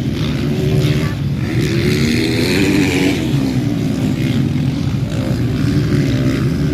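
Motocross bikes racing on the track, their engines running with a steady drone. Between about one and three seconds in, one bike revs up and down as it comes through.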